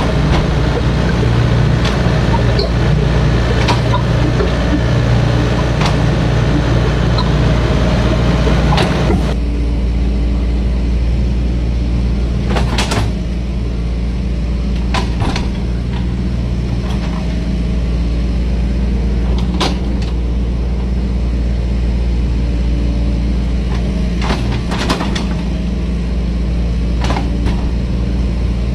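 Diesel excavator engine running steadily under load, harsher for about the first nine seconds and then easing to a lower drone, with several sharp knocks in the second half.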